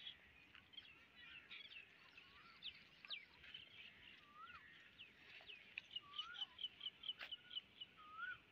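Several songbirds chirping and calling, faint: quick high chirps throughout, a fast run of repeated notes in the second half, and a few lower swooping whistles.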